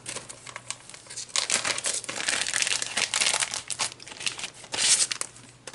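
Plastic packaging of a Close to My Heart Complements embellishment pack crinkling and rustling as it is torn open and handled, with a louder burst of crackling near the end.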